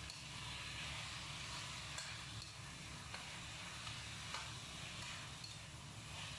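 Shredded potatoes and green bell pepper sizzling in hot oil in a frying pan as a metal spoon stirs them, with a few light clicks of the spoon against the pan.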